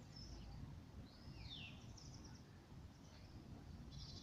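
Faint birdsong over low outdoor background noise. A downward-sliding call comes about a second in, a short trill follows just after, and a few more chirps come near the end.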